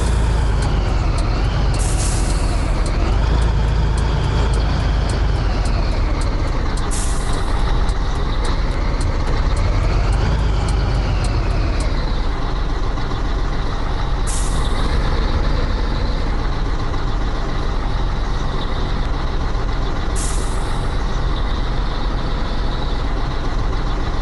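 Scania 113H truck's straight-six diesel running steadily under way, its pitch rising and falling in the first half, with four short hisses of released air from the pneumatic system.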